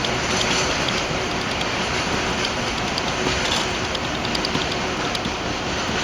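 Freight train rolling past at steady speed: a continuous rumble of wagon wheels on the rails, with light ticks in the second half.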